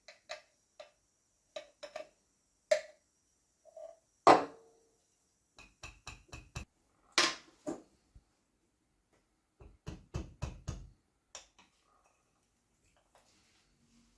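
Irregular clicks and knocks of hard objects being handled and set down, some ringing briefly; the two loudest come about four and seven seconds in, and a quick run of knocks comes around ten seconds.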